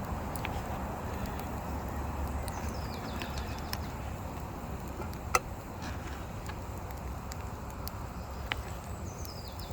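Outdoor woodland ambience: a steady low rumble of breeze, a small songbird singing a short descending phrase twice, and scattered sharp clicks and snaps, the loudest about halfway through.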